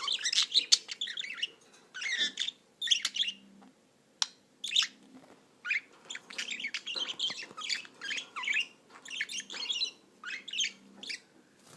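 Budgerigar chattering: a run of short, quick chirps and warbles in bursts, separated by brief pauses.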